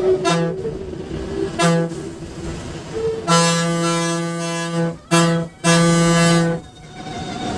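Bus horn sounding on one steady note in a pattern: two short toots, then a long blast, a short toot and another long blast.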